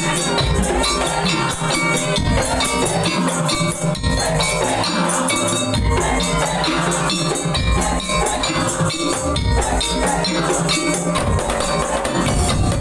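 Madurese daul music: a loud percussion ensemble of drums with bright, pitched metal percussion playing a fast, driving rhythm.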